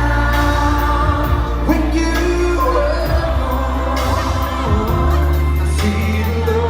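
A live pop band performing a ballad: male voices singing a drawn-out, wavering melody over sustained bass notes and drums, heard through a concert sound system.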